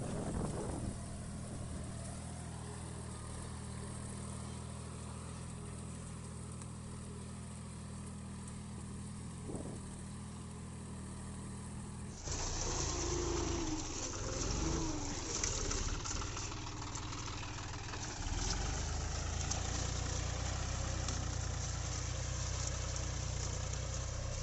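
John Deere 5042 D tractor's diesel engine running steadily. About halfway through, the sound changes abruptly to a louder, rougher engine noise that rises and falls.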